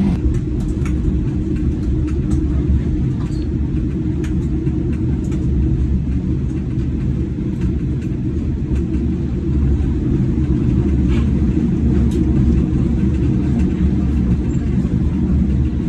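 Steady low rumble of a moving passenger train heard from inside the carriage, with a few faint clicks and rattles.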